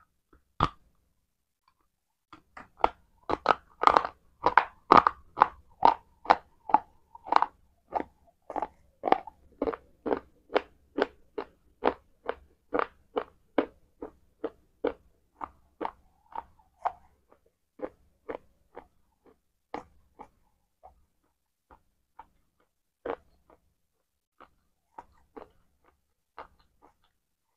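Close-miked chewing of a mouthful of fruit salad: a bite, then steady crunchy chewing at about two chews a second. The chewing is loudest in the first few seconds and grows fainter and sparser as the mouthful is chewed down.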